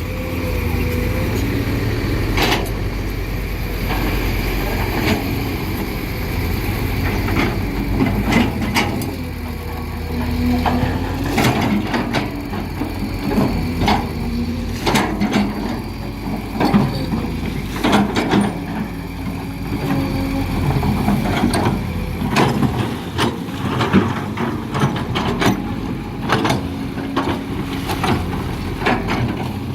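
Excavator's diesel engine running steadily under load, with a hydraulic whine that rises and falls and frequent sharp knocks and clatter of stone being pressed and broken.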